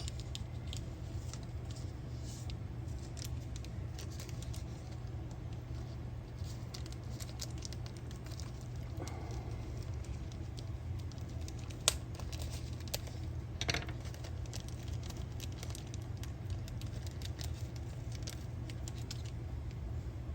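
Scattered small metal clicks and taps from handling the parts of a Penn Pursuit II spinning reel (side cover, bearing, small screws), with one sharper click about halfway through and a few more just after, over a steady low hum.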